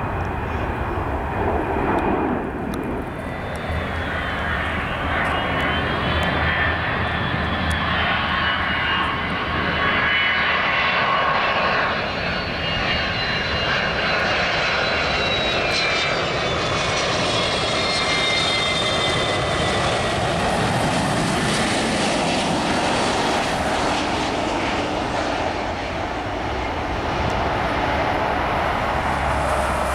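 Jet engines of an arriving Boeing 767-200 freighter running as it flies past, a steady loud roar with a high whine that slowly falls in pitch as the plane goes by.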